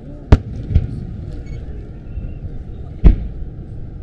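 Aerial firework shells bursting: two sharp bangs, one just after the start and one near the end, with a softer boom shortly after the first, over a steady low rumble.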